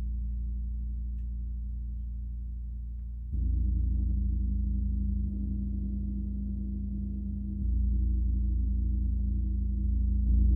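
A large gong ringing with a deep, sustained hum, softly struck again about a third of the way in and once more past two-thirds, each stroke swelling the drone without a sharp attack.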